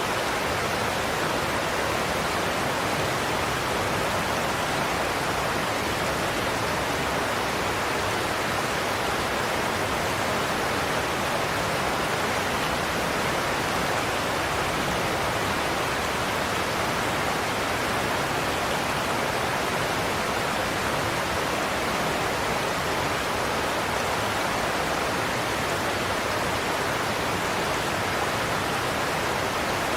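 Godafoss waterfall's heavy cascades rushing, a steady, unbroken roar of falling water.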